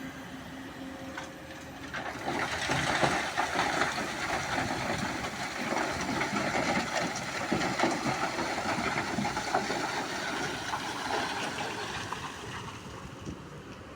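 A loaded sand truck driving past, a rough noisy rumble with crackling that swells about two seconds in and fades near the end.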